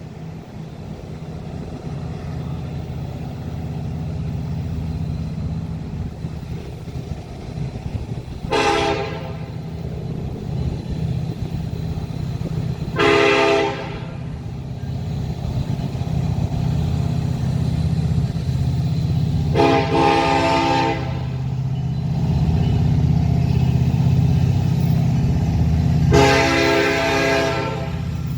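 Diesel locomotive of a Ferromex freight train approaching, its engine rumbling louder and louder, while its air horn sounds four blasts: a short one about a third of the way in, then three longer ones, the last the longest.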